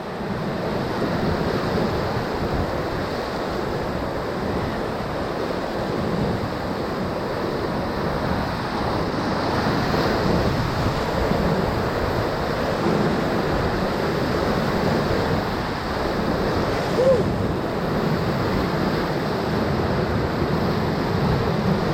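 Whitewater rushing steadily around a raft in a river rapid, with wind noise on the microphone. A brief short cry sounds about seventeen seconds in.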